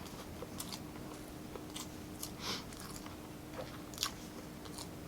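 Close-miked chewing and mouth sounds of a person eating, with scattered wet clicks and smacks, a couple louder about halfway and near the end, over a faint steady hum.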